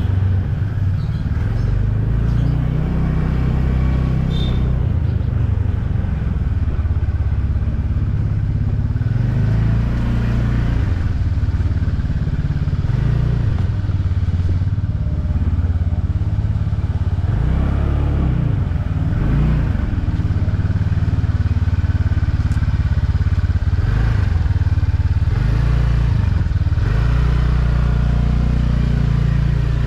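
Motorcycle engine running on the move, with heavy low rumble from the road and wind. The engine pitch rises and falls a few times partway through as the throttle changes.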